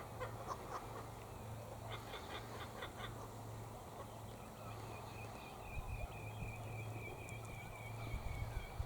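Laughing kookaburras calling faintly in rapid repeated notes that die away about three seconds in, followed by a thin, steady high note.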